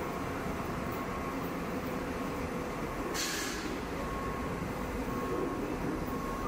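ICE high-speed train pulling away from the platform, a steady low rumble of a receding train, with a short burst of air hiss about three seconds in.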